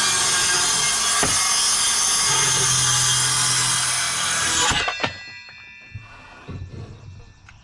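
Power saw running through a cut in 2x4 lumber, then stopping suddenly about five seconds in. A few light knocks follow.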